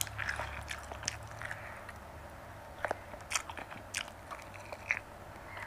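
Close-miked chewing and gnawing on a piece of marinated mutton on the bone, with a few sharp crunches and mouth clicks, mostly between about three and five seconds in.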